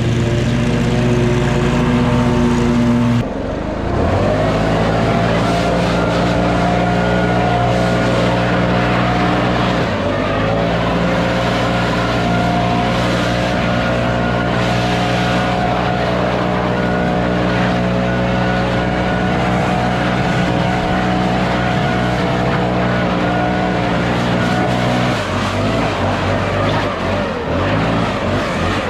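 Commercial lawn mower engine running steadily under load. About three seconds in it dips and then revs up to a higher speed, and it settles back to a lower speed near the end.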